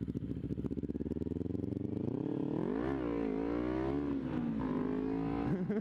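Kawasaki Ninja 250 parallel-twin engine idling with an even pulsing beat, then revving and pulling away from about two seconds in, its pitch climbing and dropping twice.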